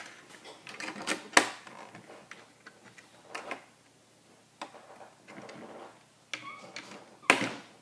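Plastic Lego pieces clicking and tapping as they are handled and snapped together, with irregular sharp clicks, the loudest about a second and a half in and again near the end.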